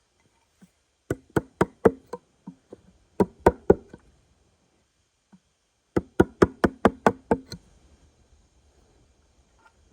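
Sharp knocks struck in three quick runs: about seven, then four, then about nine at roughly five a second.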